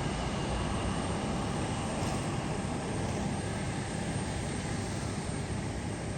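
Airliner's engines running, a steady rushing noise with a faint high whine.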